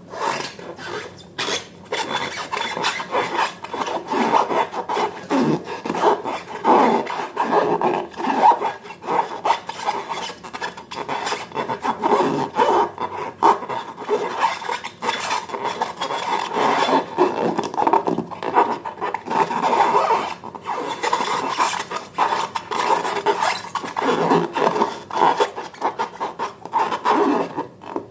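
Continuous rough rubbing and scraping in many short strokes, from hands working balloons and slime materials.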